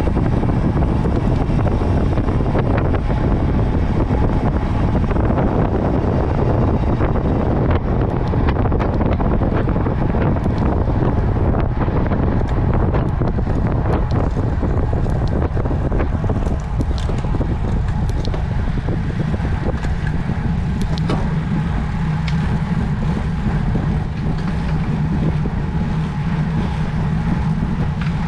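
Steady wind noise on the microphone with road noise while riding a road bike; a low steady hum joins about three quarters of the way in.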